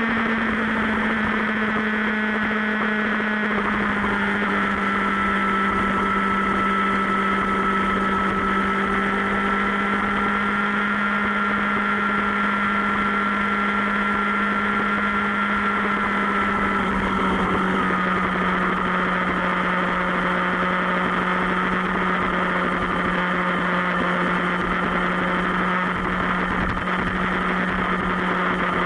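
Motorcycle engine running at a steady speed, a constant drone whose pitch eases slightly lower and then drops a step about two-thirds of the way through.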